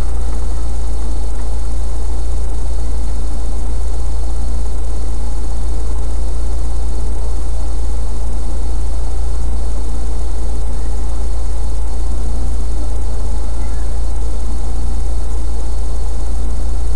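Autocross car's engine running steadily at idle, with a heavy, constant low rumble picked up by the in-car camera.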